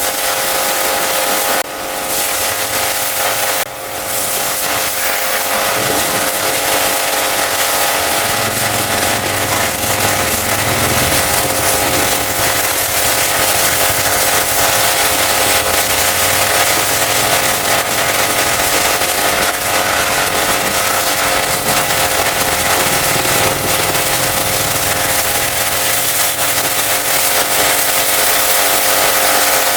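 High-pressure washer spraying water in a steady hiss, its pump motor giving a constant whine underneath; the spray briefly drops twice in the first few seconds.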